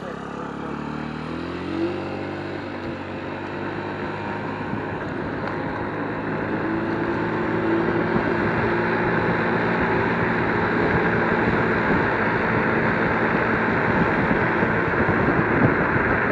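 Electric scooter accelerating: the motor's whine rises in pitch as it speeds up, and wind noise over the microphone grows steadily louder with speed.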